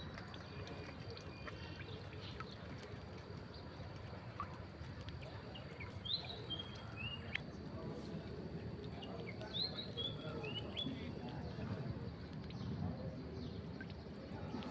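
Birds chirping against a steady outdoor background rumble, with two short runs of high chirps about six and ten seconds in.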